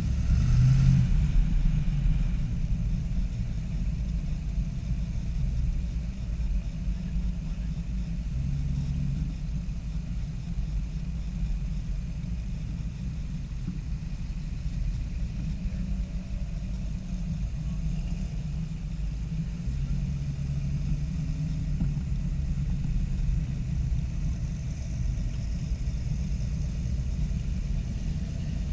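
Low, steady rumble of car engines running at idle, with a brief swell in engine pitch and loudness about a second in and again later on.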